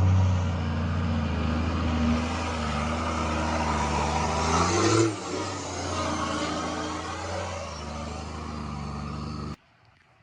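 A 4WD's engine running under load, with a steady hiss over it. The engine note changes about halfway through, and the sound cuts off suddenly near the end.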